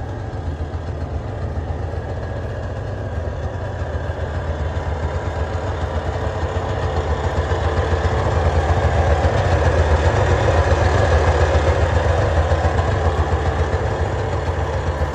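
1965 Subaru 360's small air-cooled two-stroke twin engine idling steadily on its first run after restoration, getting a little louder toward the middle and easing off near the end.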